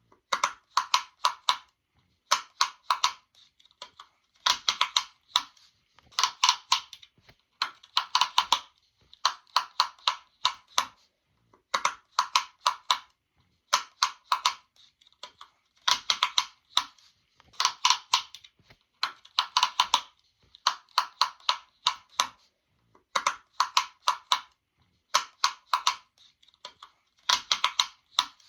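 Sharp pops in quick clusters of about five to eight, each cluster lasting under a second, repeating every second or two with short silent gaps between.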